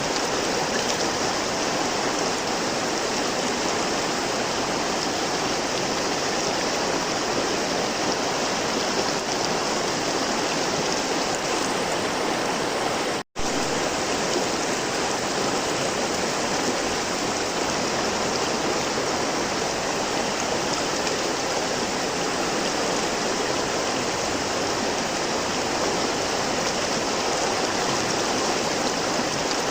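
Flowing river water rushing steadily. The sound cuts out completely for a split second about a third of the way through, then resumes.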